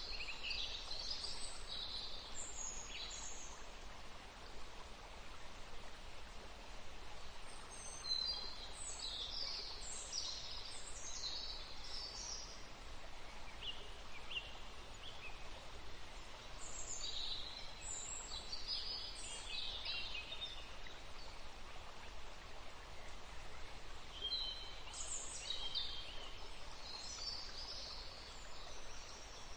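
Songbirds singing in short bursts of high, quick chirping phrases, a few seconds apart, over a steady background hiss.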